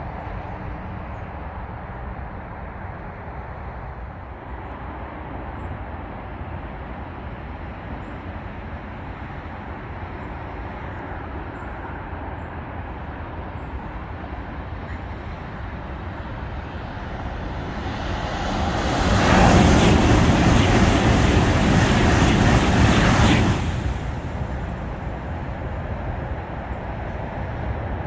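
Steady motorway traffic noise, then a high-speed electric train on High Speed One passing at speed under the bridge. The approach rises over a couple of seconds into a loud rush that lasts about five seconds and falls away fairly sharply as the train goes by, leaving the traffic noise.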